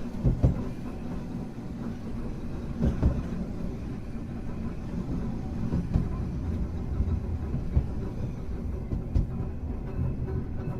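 Hankai Tramway car 351 running along the line: a steady low rumble from wheels and running gear, with occasional knocks from the wheels passing over the track.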